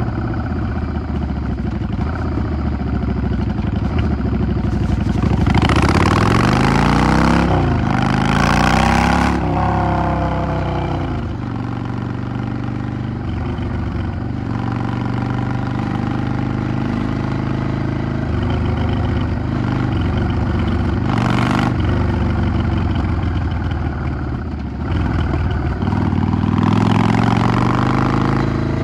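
Yamaha XVS 650 V-Star's air-cooled V-twin engine under way. About five seconds in it accelerates, rising in pitch, drops at a gear change, and rises again before easing off. It runs more steadily in the middle and accelerates once more near the end.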